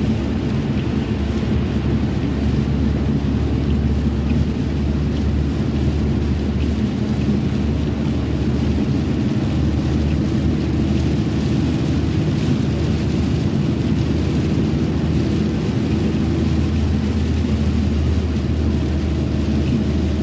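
Steady low rumble of a vehicle running, with even bands of engine hum under a faint hiss of road or wind noise.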